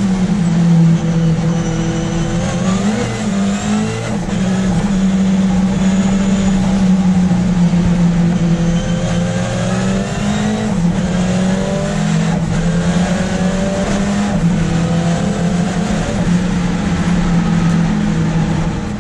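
Ford Escort RS Cosworth race car's turbocharged engine, heard from inside the car as it is driven hard on track, its pitch rising and falling repeatedly through the gears.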